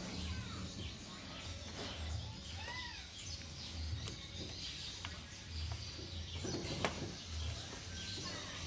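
Small bird chirping in the background, with one short rising-and-falling call about two and a half seconds in. A few faint clicks come from a flat flex cable being handled at a TV's T-con board connector, the sharpest one near the end.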